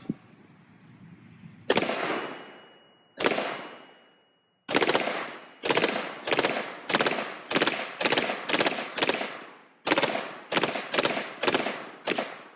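AR-15-style rifle firing about eighteen shots. The first two are single shots about a second and a half apart, to check the zero. Then comes rapid semi-automatic fire at roughly two to three shots a second, each crack with a short echo.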